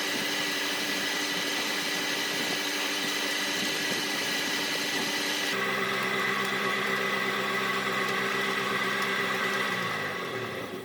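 Electric motor of a wood lathe running with a steady, many-toned hum. Near the end it slows down, falling in pitch as it is switched off.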